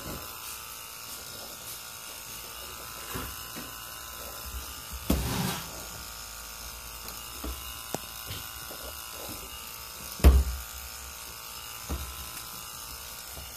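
Electric in-tank fuel pump from a 2010 Chevy Malibu, run off a 12-volt supply, humming steadily as it pumps fuel out of the gas tank. A few knocks sound over it, the loudest about ten seconds in.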